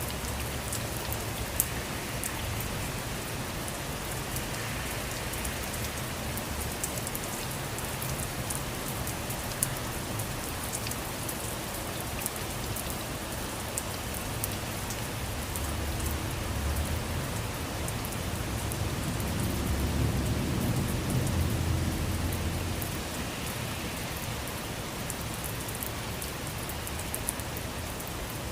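Steady rain falling on a surface, with scattered sharper drop ticks. About two-thirds of the way through, a low rumble swells for several seconds and fades back into the rain.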